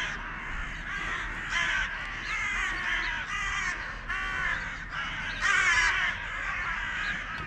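Crows cawing, a string of harsh calls repeated every second or so, with several birds calling.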